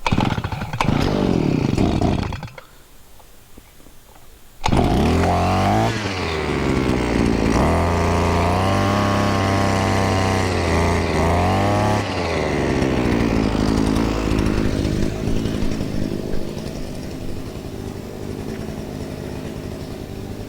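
TDKMAN brushcutter's small two-stroke petrol engine started on choke: it fires and runs for about two seconds, cuts out, then catches again about four and a half seconds in. It revs up and down for several seconds, then settles to a steadier, quieter run near the end.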